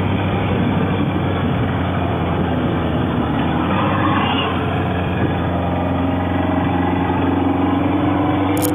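Motorcycle engine running under way. Over the second half its pitch climbs steadily as the bike accelerates.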